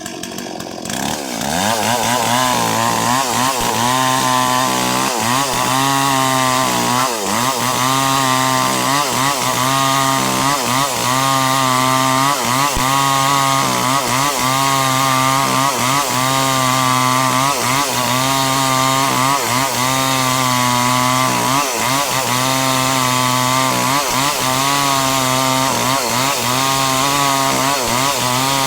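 A small engine or motor running steadily at a loud, constant level. It builds up over the first second or two, then its pitch wavers in a regular cycle every second or two.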